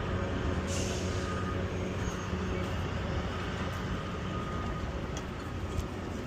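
A heavy diesel engine idling with a steady low rumble.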